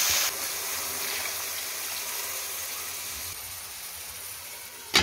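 Tomatoes and green chillies sizzling in oil in a frying pan. The hiss drops suddenly just after the start and then fades steadily. Near the end comes a sharp knock of cookware, the lid going onto the pan.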